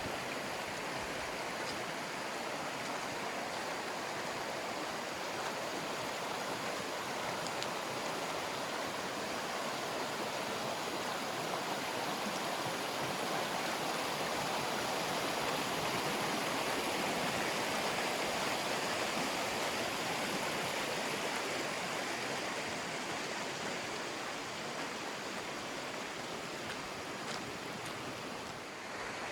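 A river rushing steadily over rocks, swelling a little louder midway through and easing again near the end.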